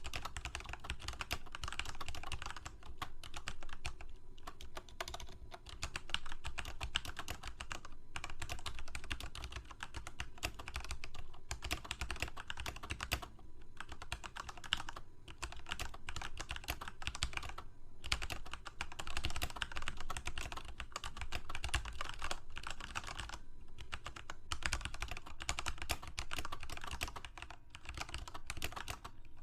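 Typing on a computer keyboard: a rapid, continuous run of key clicks, broken by several short pauses.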